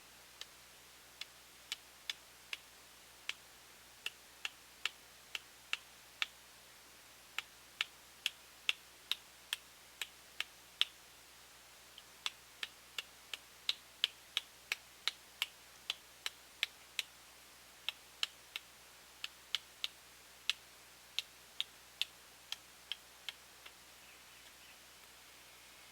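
A series of sharp, light clicks, about two a second at an uneven pace, stopping shortly before the end.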